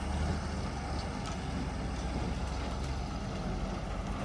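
A heavy engine running steadily with a low hum, typical of a truck-mounted borewell drilling rig.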